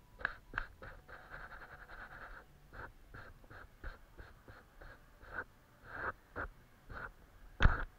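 Paintbrush working on paper: a series of short, separate strokes and dabs, about one or two a second, with a quick scrubbing run about a second in and a sharper, louder knock near the end.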